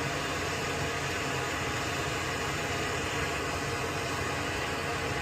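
Steady, even hiss of continuous background noise, with no separate clicks or knocks.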